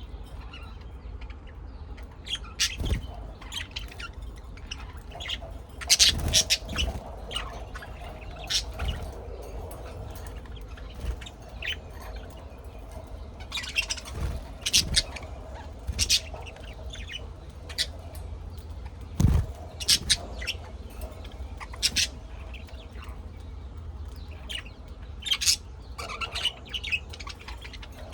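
Birds making short, sharp chirps at irregular intervals, some in quick clusters, over a low steady rumble.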